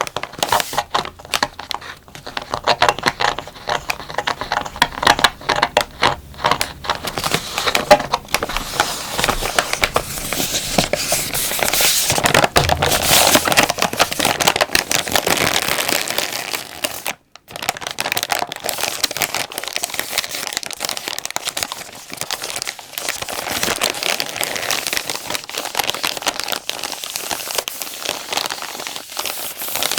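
Plastic wet-wipe pack being crinkled and squeezed by hand, a dense run of irregular crackles that is busiest about halfway through. The sound breaks off for a moment just past the middle, then resumes.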